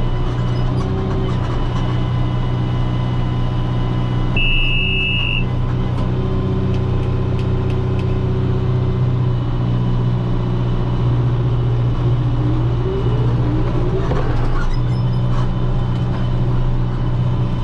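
Tractor engine running steadily under load while pulling a hay baler. A single high-pitched electronic beep lasts about a second, roughly a quarter of the way in, and a faint rising whine comes about three-quarters through.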